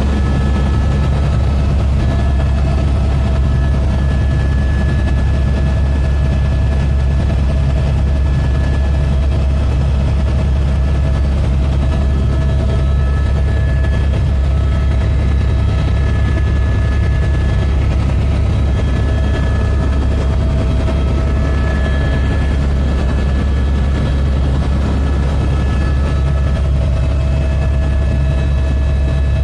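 Helicopter in flight: a steady, loud low rotor and engine drone with thin whining tones from the turbine and gearbox that fade in and out.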